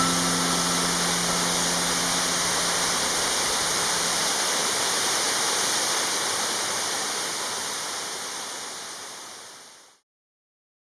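A 15-metre waterfall pouring steadily, an even rush of water that fades out over the last few seconds and stops near the end. A few held music notes die away in the first couple of seconds.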